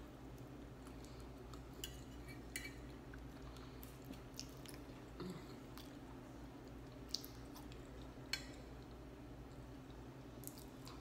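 Quiet, close-miked chewing of soft chicken pot pie, with several short sharp clicks and smacks scattered through, over a steady low hum.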